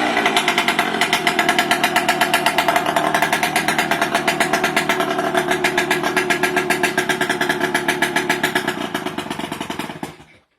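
Kawasaki KE100's two-stroke single-cylinder engine idling through a homemade exhaust with a mini expansion chamber and a perforated baffle but no muffler yet, with a rapid, even beat; it is pretty freaking loud. The sound cuts off near the end.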